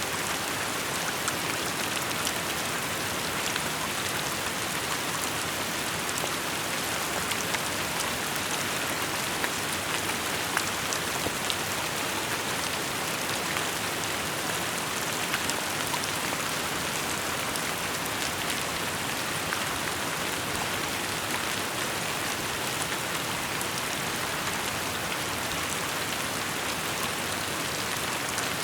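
Steady rainfall, with a dense hiss of drops striking surfaces and many small individual drop ticks.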